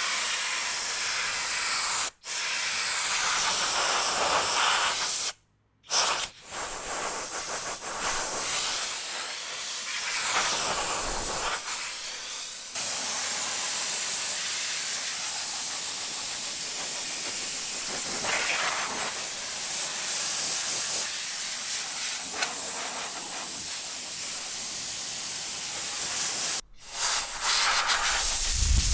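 A car-wash spray wand hisses steadily as it works over the car, breaking off briefly a few times.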